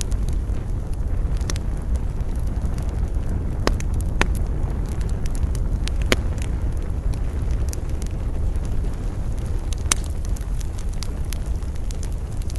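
Campfire burning in the wind: a steady low rush with scattered sharp crackles and pops from the burning wood, the loudest pop about ten seconds in.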